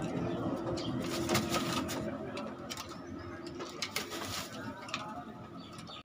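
Birds cooing softly in a pen, with a few sharp clicks.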